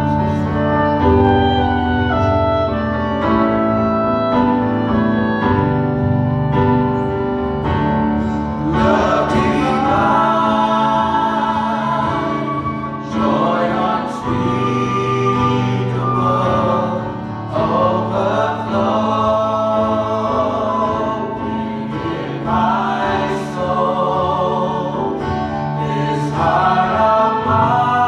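Church worship song: an instrumental introduction of sustained chords, then voices come in singing with vibrato about a third of the way in.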